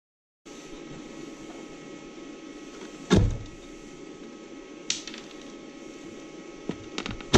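Room tone with a steady electrical hum, broken by a few sharp knocks. The loudest knock comes about three seconds in, and fainter ones follow near five and seven seconds.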